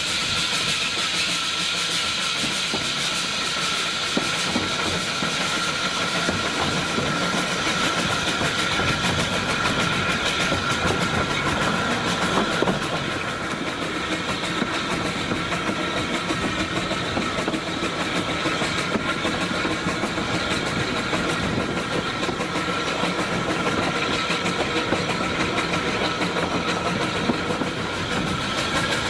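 Narrow-gauge train running along the track, heard from an open carriage window: a steady rumble and rattle of the carriage on the rails, with a faint steady whine.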